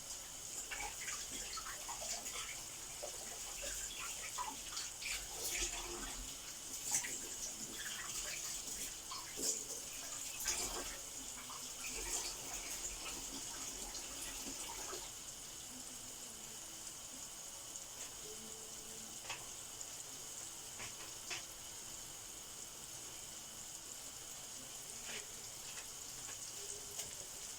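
Flour-coated chicken strips shallow-frying in hot oil in a pan: a steady sizzle with scattered pops and crackles, which thin out about halfway through.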